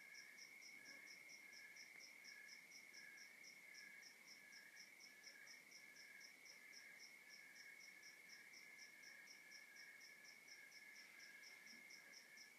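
Faint chorus of crickets calling at night: one steady high trill, another chirping about twice a second, and a higher-pitched one pulsing about four to five times a second.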